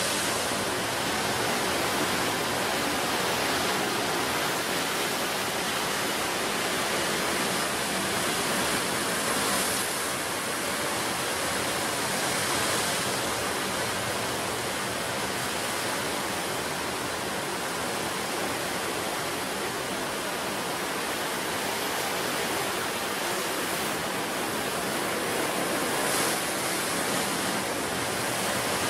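Ocean surf breaking and washing in a steady roar of noise, with slight surges as individual waves break.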